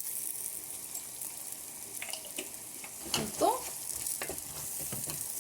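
Onions and red and green peppers sizzling steadily as they fry over high heat in a pan, with a few light clicks scattered through.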